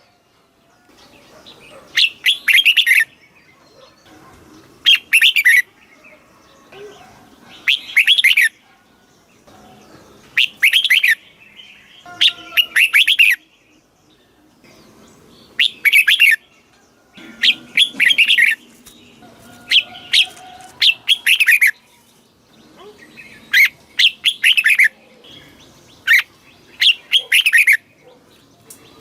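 Red-whiskered bulbul singing: short, loud phrases of quick up-and-down notes, repeated every two to three seconds.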